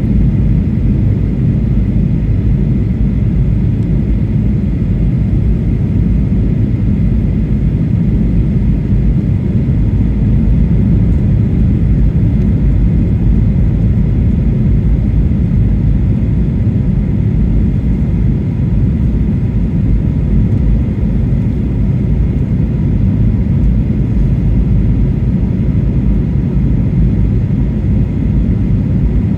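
Boeing 737-800 cabin noise in flight: a steady, even rumble of engines and airflow heard from inside the cabin, with a faint steady whine above it.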